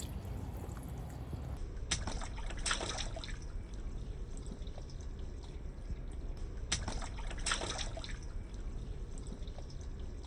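Water from a burst water-tank bag trickling and dripping, with two short spells of splashing, about two seconds in and again about seven seconds in.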